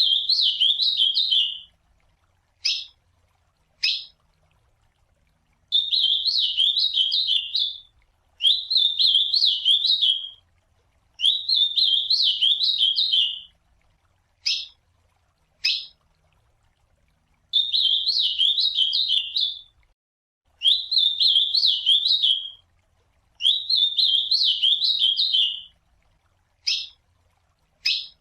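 Ultramarine grosbeak (azulão) singing: seven rich warbled song phrases of about two seconds each, repeated every few seconds, with short single call notes in several of the gaps.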